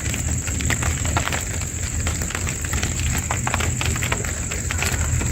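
Rain falling, with a dense, irregular patter of drops over a steady high-pitched tone and a low rumble.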